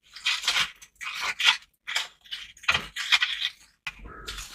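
A long metal crab hook scraping and grating against rock and shell inside a deep crevice, in a series of rough strokes about one every three quarters of a second, as it probes for a mud crab it cannot reach.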